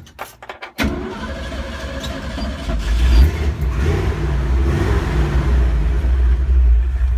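1973 Ford Bronco engine started: a few clicks, then the engine fires under a second in, swells in level around three seconds and settles into steady running.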